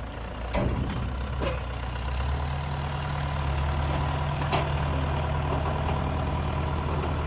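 Tractor engine running at idle, picking up speed about half a second in and again around two seconds in, then running steady, with a few light clicks.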